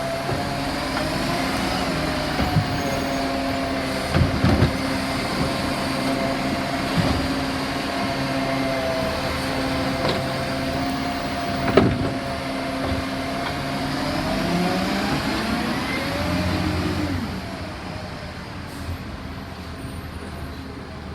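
Garbage truck running with a steady engine and a wavering hydraulic whine while it lifts and empties wheelie bins, with several sharp knocks of bins against the lifter. Near the end the whine rises and falls, then the truck goes quieter.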